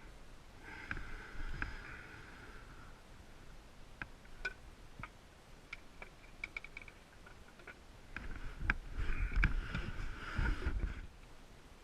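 Metal clinks, ticks and short ringing tones of tools and parts being handled during transmission work, busier near the end with low knocks and thumps.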